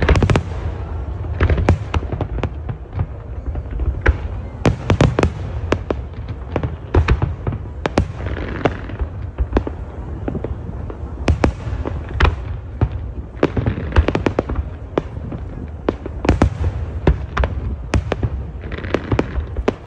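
Aerial fireworks display: a rapid, irregular run of sharp bangs from shells bursting, often several a second, over a continuous low rumble.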